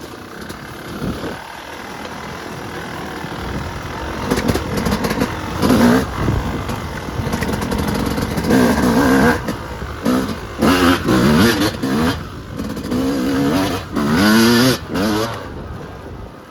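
Yamaha YZ250 two-stroke dirt bike engine under way, growing louder from about four seconds in, then revved hard in a series of short bursts with the throttle snapped shut between them, rising and falling in pitch. The sound drops off suddenly near the end.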